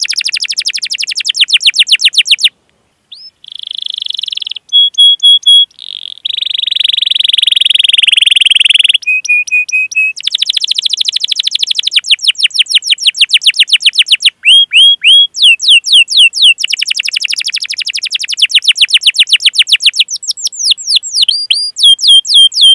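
Canary singing a long rolling song: fast trills of down-sweeping chirps, short steady whistled notes and a harsh buzzy phrase in the middle, with brief pauses between phrases.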